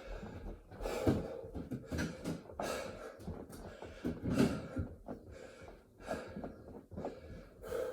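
A man breathing hard: a run of heavy, gasping breaths from the exertion of a burpee set.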